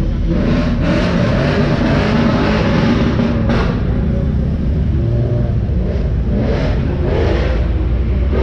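Sports car engine revving in repeated loud surges over a heavy low rumble, with music playing along.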